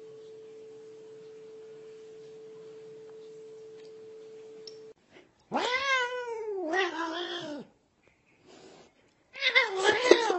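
A faint steady hum for about the first five seconds. Then a cat gives a long drawn-out meow that rises and falls, and a second, shorter meow near the end.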